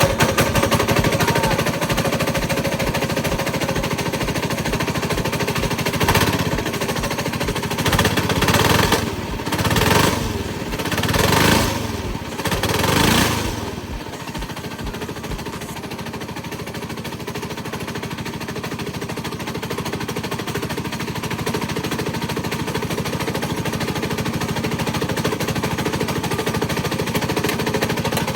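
Coleman 196cc single-cylinder engine running with a rapid, rattling knock, the sign of a worn connecting-rod bearing (rod knock). It is revved in five short bursts in the first half, then runs steadily with the knock still there.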